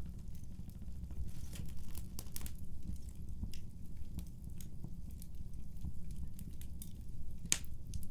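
Wood fire in a fireplace crackling, with irregular sharp pops over a steady low rumble; one pop near the end is the loudest.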